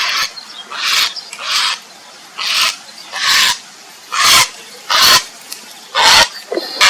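Grey heron giving its mating call: a steady series of about nine short, harsh, rasping calls, one every half-second to second.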